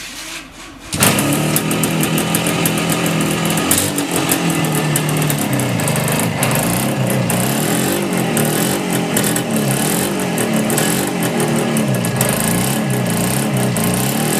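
Suzuki GT250 two-stroke twin engine catching on a kick start about a second in, then running with its revs rising and falling repeatedly.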